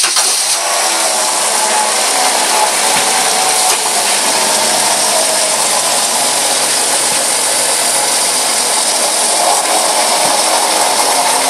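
Car engine running just after start-up, carrying a loud, steady mechanical noise from the engine.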